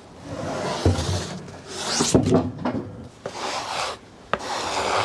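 Rubbing strokes across the face of a freshly sawn black walnut slab, about four in a row, with a few light knocks against the wood.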